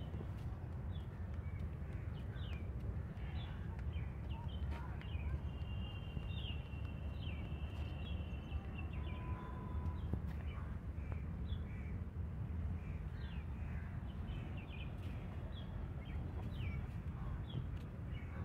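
Birds calling, many short high chirps and calls repeating throughout over a steady low rumble.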